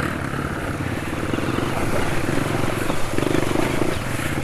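Honda CRF230F dirt bike's single-cylinder four-stroke engine running steadily under way on a trail ride, with a fast, even thumping pulse.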